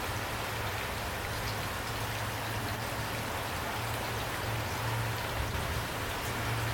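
Steady rain falling, with scattered individual drops ticking on a surface over a low steady rumble.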